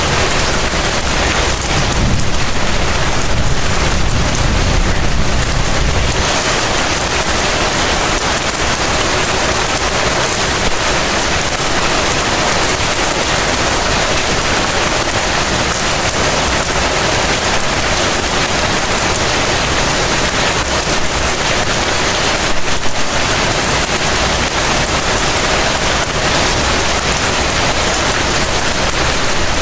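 Heavy rain falling steadily in an even, dense hiss, with a low rumble from about two seconds in that fades out a few seconds later.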